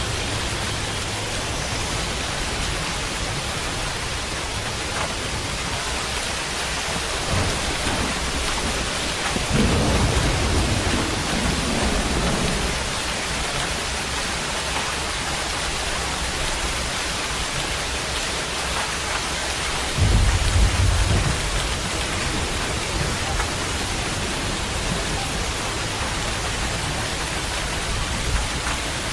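Steady rain falling, with two low rumbles of thunder: a longer one about a third of the way in and a shorter, louder one a little past two-thirds.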